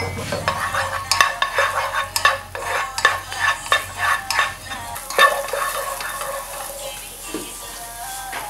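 A silicone spatula scrapes and taps around a nonstick frying pan while minced red onion and ginger sizzle in it as they sauté. The stirring strokes come quickly for about five seconds, then ease off.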